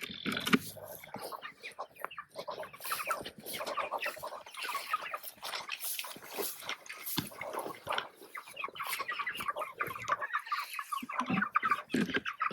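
A flock of chickens clucking, many short overlapping calls running on without a break.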